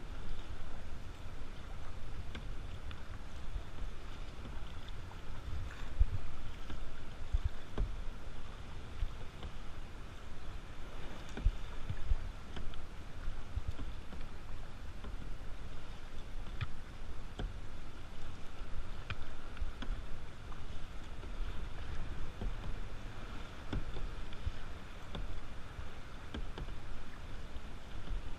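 Kayak being paddled on open water: a steady low wind and water rumble on the microphone, with scattered small splashes and knocks from the paddle.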